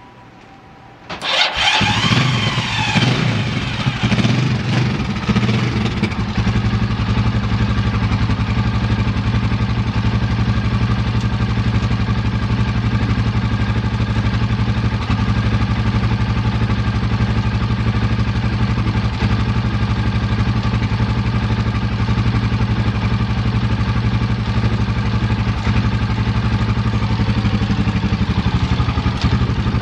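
Gilera Saturno 500's single-cylinder engine starting about a second in, revving unevenly for a few seconds, then settling into a steady idle.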